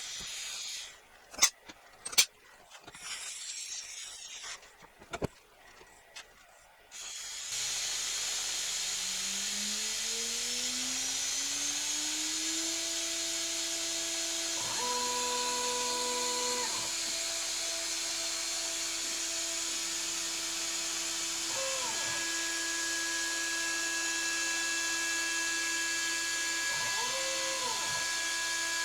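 A few sharp clicks, then a CNC milling machine's spindle starts and spins up over about five seconds to a steady high whine. Short tones rise and fall briefly three times over the steady running.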